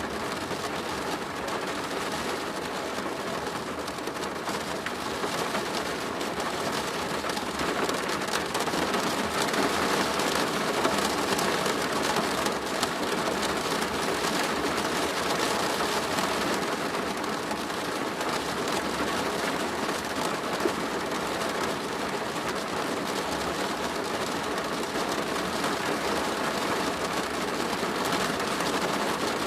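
Steady rain drumming on a plastic roof, a dense pattering of drops that swells a little about a third of the way in.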